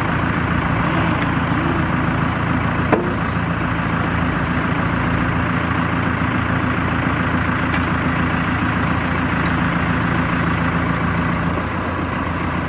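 Diesel engine of a CAT 430E backhoe loader idling steadily, with one short click about three seconds in.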